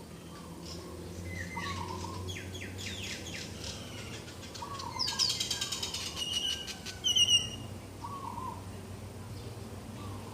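Several birds calling together in a morning chorus: overlapping chirps, quick falling whistles and a rapid trill, with the loudest sharp calls about seven seconds in. A short lower call repeats every few seconds, over a steady low hum.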